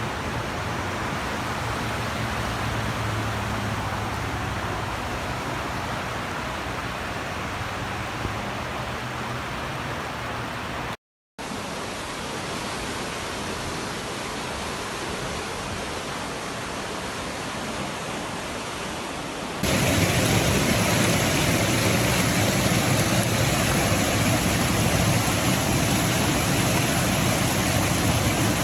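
Steady rushing noise of heavy water, across successive storm clips. There is a brief dropout about eleven seconds in, and the noise gets louder and brighter from about twenty seconds in.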